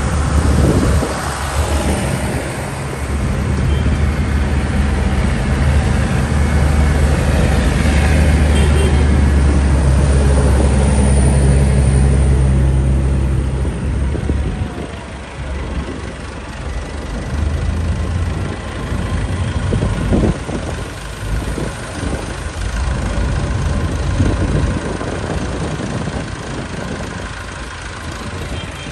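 Tractor engine running close by with a deep, steady note that is loudest in the first half, then fades as it moves away, leaving a rougher background of engine rumble.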